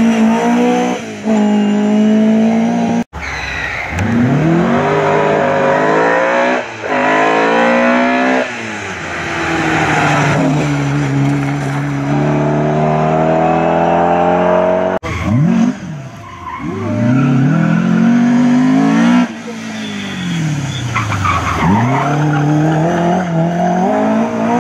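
Rally car engine revved hard at full throttle, its pitch climbing through each gear and dropping at every upshift, then falling away as the car passes. The sound breaks off abruptly twice where one clip cuts to the next.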